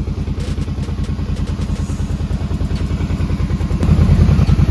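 Kawasaki Brute Force ATV engine running steadily with a rapid, even pulse, getting louder a little before the end.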